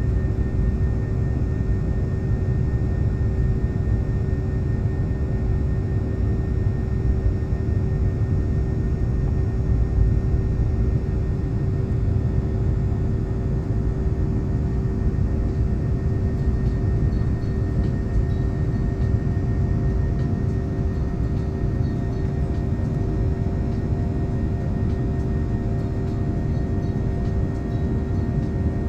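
Airliner cabin noise from the jet engines: a steady low rumble with a constant hum of several tones, unchanging throughout.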